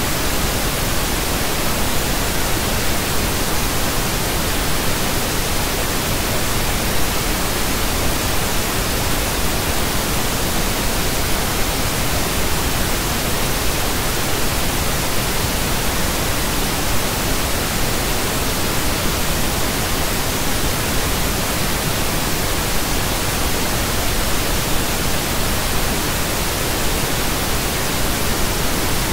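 Steady pink noise: an even, unchanging hiss spread across the whole range of pitch, with no tones or events in it.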